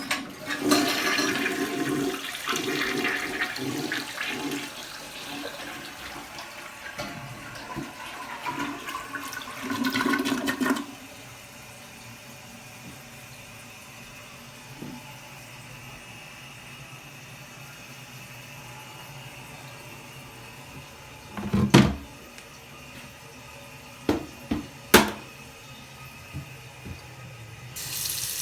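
Toilet being flushed: a loud rush of water for about eleven seconds, then the quieter steady hiss of the tank refilling. A few sharp knocks come through the refill near the end.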